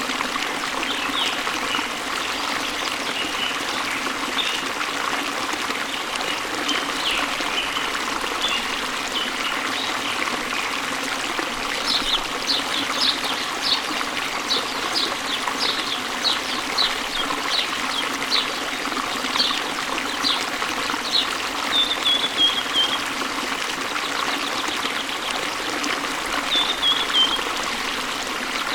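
Waterfall pouring into a stream with steady splashing and flowing water, and small birds chirping over it, with a quick series of short chirps from about twelve seconds in and brief trills near the end.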